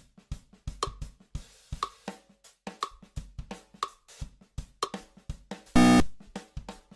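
Drum-kit beat of snare, bass drum and hi-hat hits at an even tempo. A little before the end, a loud half-second sound with many overtones cuts in over the beat.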